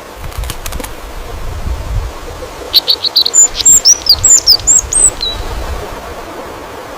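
A songbird sings one quick phrase of sharp chirps that turn into high whistled, up-and-down notes, starting about three seconds in and lasting a little over two seconds. Before it, in the first two seconds, there is a low rumble with a few clicks.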